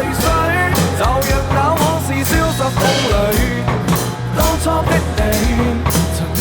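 Drum kit played along to a recorded song with singing: steady beat with cymbal hits over bass and a sung melody.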